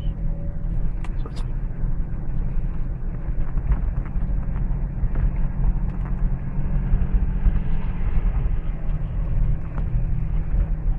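Steady low rumble of a car running, with a faint hiss above it and a couple of small clicks about a second in.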